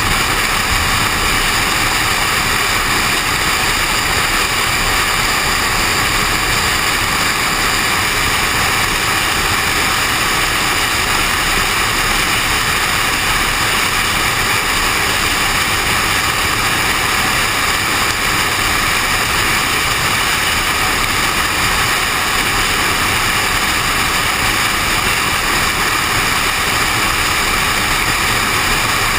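Steady rushing vehicle noise, wind and road noise of a car on the move, picked up by a GoPro suction-cupped to the car's window; it holds level with no changes.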